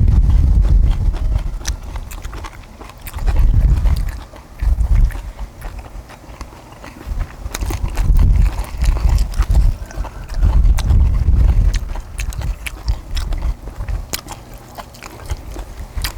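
People chewing chewy stir-fried octopus and kimchi, with many sharp clicks of chopsticks and utensils. Repeated bursts of low rumble from wind on the microphone come and go.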